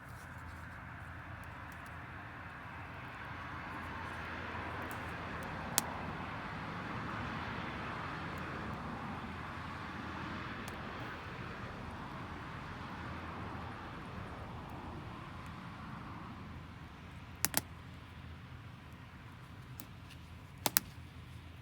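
Sharp pops of burning firewood, one about six seconds in and two close pairs near the end, over a rushing noise that swells for several seconds and then fades.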